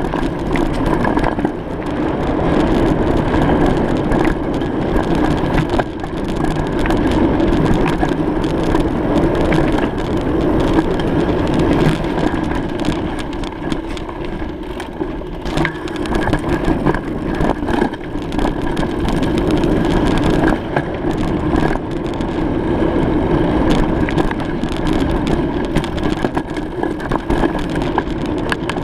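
Bicycle rolling over a rough surface: a steady rushing noise with a dense run of crunching clicks and rattles.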